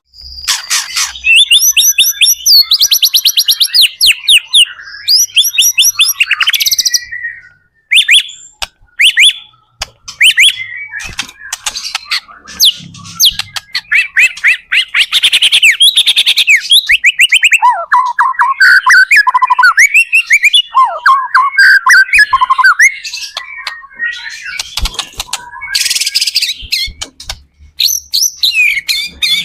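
White-rumped shama (murai batu) in full song: loud, varied whistled phrases and rapid trills, with a couple of brief pauses.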